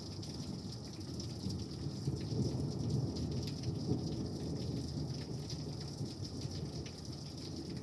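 A long, low roll of thunder that builds about a second and a half in, is loudest in the middle and slowly fades, over the steady hiss and patter of rain.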